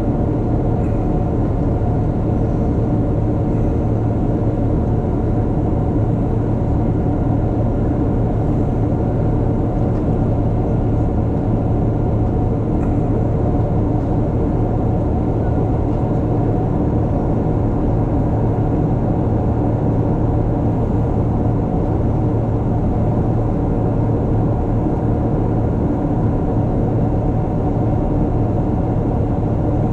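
Steady cabin noise of a Boeing 777-300ER in flight: an even rush of airflow over a steady low hum from its GE90-115B engines, unchanging throughout.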